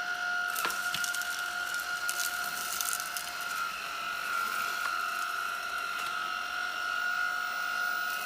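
Tineco A11 Master cordless stick vacuum running with a steady high whine. Over the first few seconds it crackles and ticks as it sucks up dry grass and leaves.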